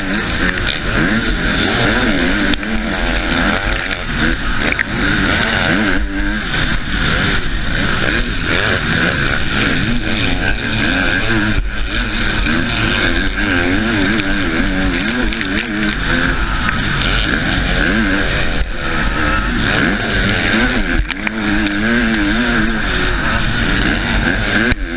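Husqvarna motocross bike engine revving hard, its pitch climbing and dropping over and over with throttle and gear changes, heard from the rider's helmet camera with constant rushing noise over the microphone.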